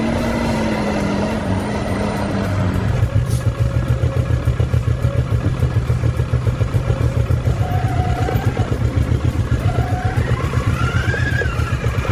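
Heavy truck engine running hard, settling from about three seconds in into a fast, loud throbbing pulse several times a second.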